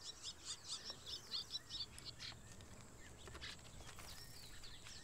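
Faint outdoor ambience with a small bird singing a quick run of repeated high chirps that stops about two seconds in, followed by a few scattered, fainter calls.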